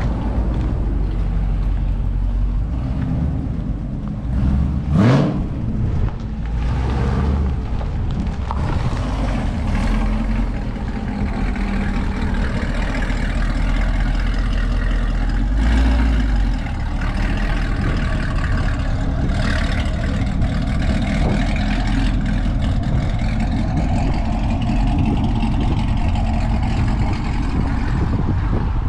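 Car engines running with a steady low rumble. About five seconds in, one rises sharply in pitch.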